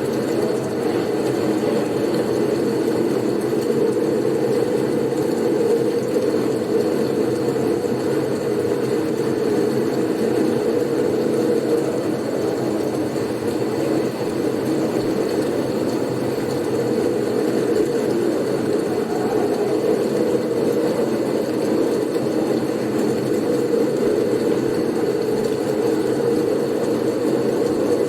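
Steady blizzard wind: a dense, low rushing noise that keeps on evenly, without gusts or breaks.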